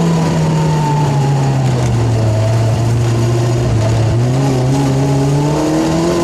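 Rally car engine heard from inside the cabin, its revs falling steadily as the car slows. About four seconds in the pitch jumps up, and the revs climb as the car drives through the corner.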